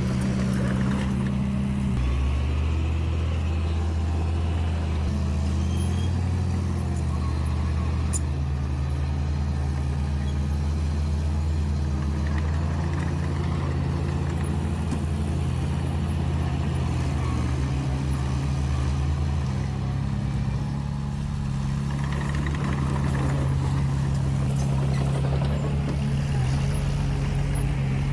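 Bulldozer's diesel engine running steadily under work, its engine note shifting about two seconds in and again later.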